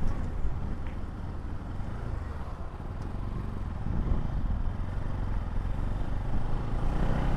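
Bajaj Pulsar NS200's single-cylinder engine running while the motorcycle is ridden, with a steady low rumble of engine and road noise that grows louder about four seconds in. The rider judges the engine to be in good condition.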